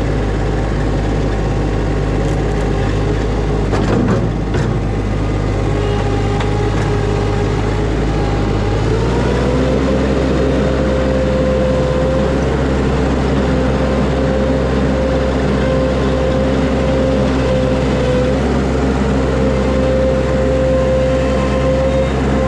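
Skid steer engine running steadily, its pitch stepping up slightly about nine seconds in, with a steady whine over the engine note.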